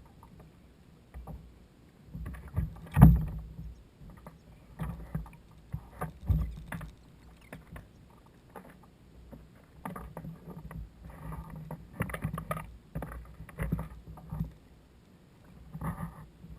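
Irregular knocks and bumps on a fishing kayak, with the loudest knock about three seconds in and a cluster of smaller ones later on.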